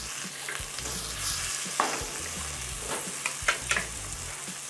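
Frozen mixed vegetables sizzling in olive oil in a frying pan as a wooden spatula stirs them. A steady sizzle runs under scattered scrapes and taps of the spatula against the pan, most of them between about two and four seconds in.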